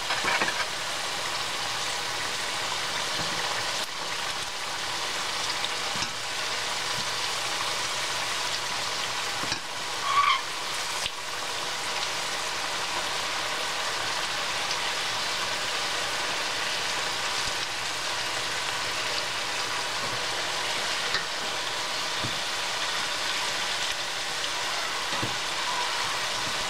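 Sweet potato wedges sizzling steadily in very hot oil in a stainless steel pan, with a few clicks and knocks from a wooden spatula as the pieces are turned.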